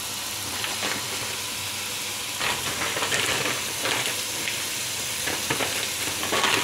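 Fish nuggets sizzling in a wok with a little water and no oil: a steady hiss, with scattered crackles and pops from about two and a half seconds in.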